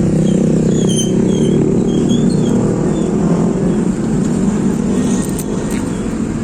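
A motor vehicle's engine running steadily close by, with a few short high chirps in the first two seconds; it gets a little quieter after about five seconds.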